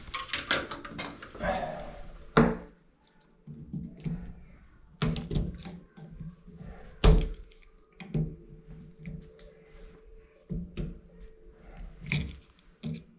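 Metal tools knocking and clanking irregularly on a shower valve as a wrench works at a stuck bonnet nut. There are sharp knocks every second or so, and the loudest comes about seven seconds in.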